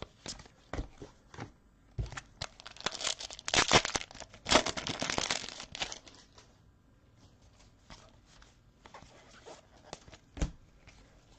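A trading-card pack wrapper being torn open and crinkled by hand, with a dense stretch of crackling about two to six seconds in, surrounded by light clicks of cards being handled and one sharp tap near the end.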